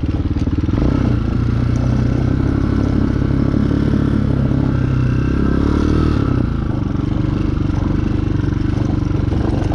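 Chinese 250 cc dirt bike's engine running under way at steady revs, easing off about six and a half seconds in.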